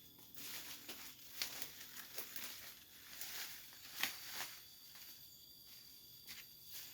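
Irregular rustling and crackling, like dry leaf litter and twigs being handled or stepped on, with a sharper crackle about a second and a half in and another about four seconds in. A faint steady high insect hum runs underneath.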